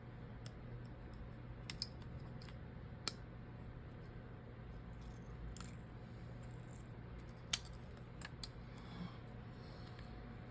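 Scattered light clicks and taps from small tools and plastic phone parts being handled during a phone screen replacement, about six sharp ticks over several seconds, over a steady low hum.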